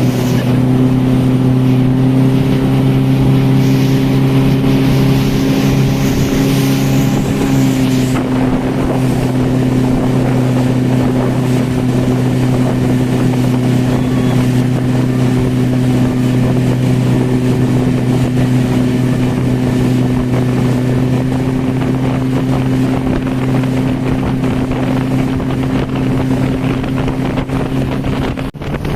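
Motorboat engine running steadily at speed, with rushing water and wind on the microphone; the high hiss eases off about eight seconds in.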